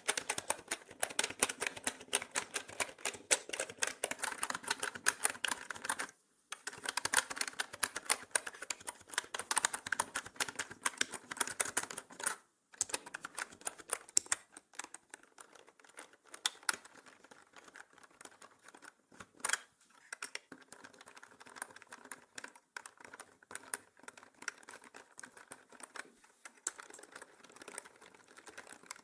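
Typing on a mechanical keyboard: rapid, dense key clicks, breaking off briefly twice, then going on more sparsely and softly through the second half. The audio is processed as 8D, panning around the listener.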